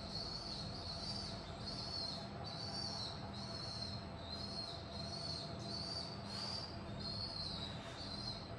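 A bird calling over and over: a short high call repeated about one and a half times a second, over a low steady hum.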